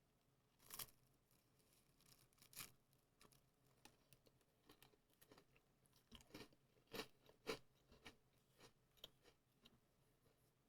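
Faint close-up chewing of a crunchy Maria biscuit, with short irregular crunches, the loudest about a second in and again around seven seconds in.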